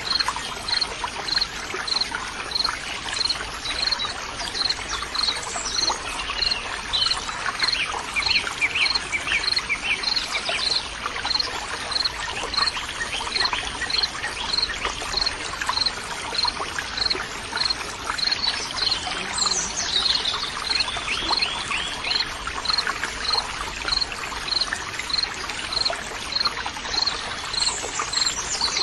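Flowing, trickling water with birds singing. A high chirp repeats evenly about one and a half times a second, and bird trills and sweeping calls come in about a quarter of the way in and again about two thirds of the way in.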